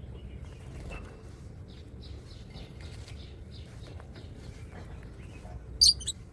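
Small pet parrots chirping repeatedly in short notes, with one loud, harsh screech near the end.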